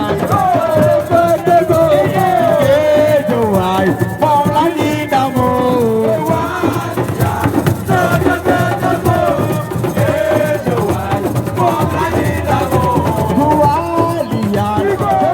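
Live music: a voice singing a melody over percussion with a rattle.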